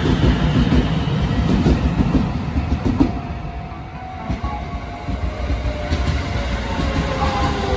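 Shin-Keisei electric commuter train rumbling along the platform with wheel clatter on the rails. After a break about three seconds in, a second train runs into the station, its motor whine sliding down in pitch as it slows.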